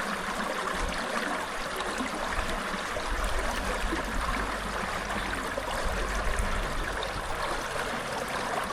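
Running water of a partly frozen waterfall, a steady rushing flow.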